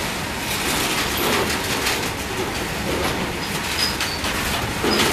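Loaded freight train wagons rolling past, a steady rumble of steel wheels on the rails with repeated clatter.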